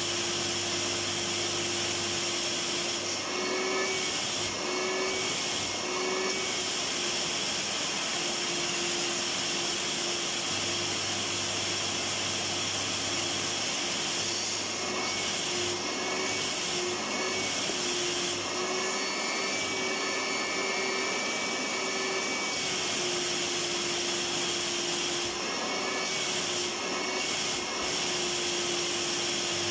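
Vacuum cleaner running continuously: a steady motor whine over a dense rush of air. A few times its pitch lifts slightly for a second or several, as the airflow changes.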